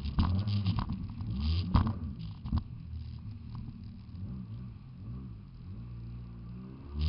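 Jet ski engine running, its pitch rising and falling with the throttle; louder with rushing noise over the first couple of seconds, then steadier and quieter.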